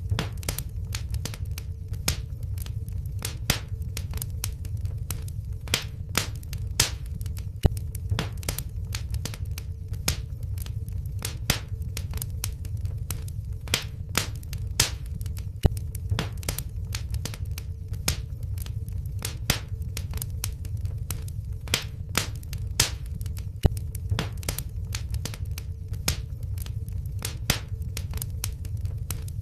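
Wood fire burning in a fireplace, crackling with frequent sharp irregular pops over a steady low rumble of flame, with a faint steady hum underneath.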